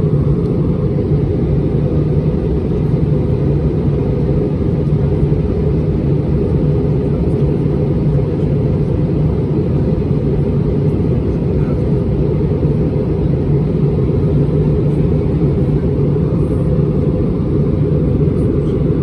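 Steady low rumble inside the passenger cabin of an Airbus A320-231, the engines and airflow heard through the fuselage, with a constant low hum running under it.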